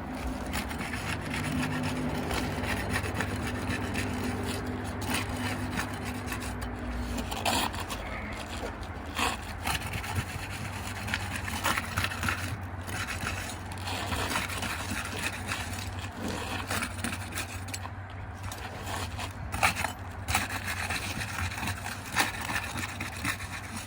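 Asphalt roof shingle tabs being pried up to break their adhesive tar sealing strip: continuous scraping and rubbing with scattered sharper strokes, over a low steady hum.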